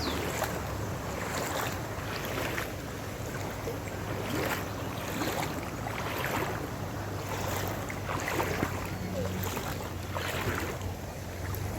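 Floodwater sloshing and splashing in surges every couple of seconds, with wind on the microphone and a steady low hum underneath.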